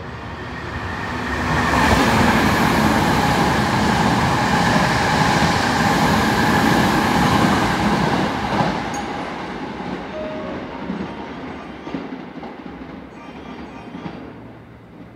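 Hankyu electric train running along the station platform: the rumble of wheels on rail grows loud within about two seconds, holds with a steady ringing whine for about six seconds, then fades away.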